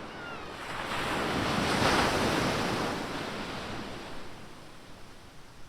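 Ocean surf: a wave breaking on the beach, swelling to a peak about two seconds in and then fading as the wash runs out.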